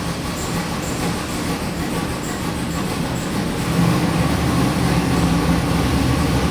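Chevrolet LS3 376 cubic inch V8 crate engine running on an engine dyno, a steady drone that gets a little louder about four seconds in.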